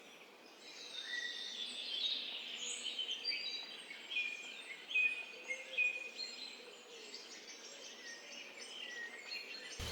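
A chorus of songbirds: many short whistled notes and trills overlapping, fading in over the first second.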